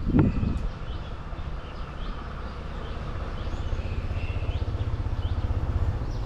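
Benelli TRK 502X's parallel-twin engine running at low revs, a steady pulsing rumble that grows slowly louder. Short bird chirps sound over it.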